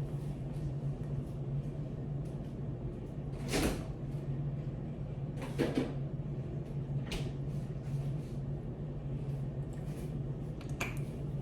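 A few brief handling knocks and swishes, four in all, over a steady low hum.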